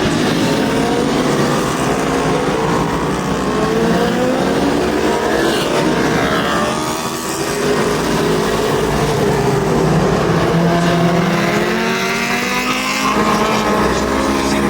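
Several racing superbike engines running hard at once, their overlapping pitches rising and falling as the bikes accelerate, shift and brake on track. Loudness dips briefly about halfway through.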